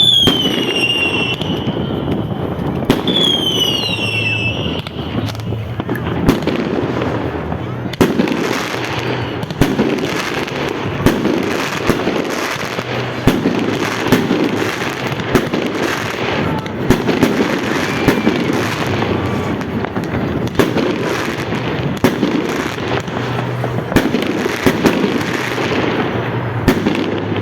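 Fireworks going off: two whistling shells fall in pitch in the first few seconds, then a dense, continuous barrage of bangs and crackling.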